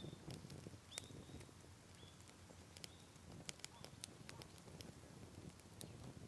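Wood bonfire crackling quietly with irregular sharp pops, while a bird gives short chirps about once a second over the first three seconds.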